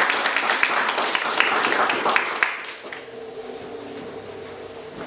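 Audience clapping, dense and steady, that stops about two and a half seconds in, leaving a quieter steady sound with a few held low tones.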